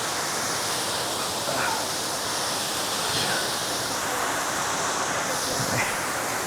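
Steady, unbroken rush of water from a small waterfall.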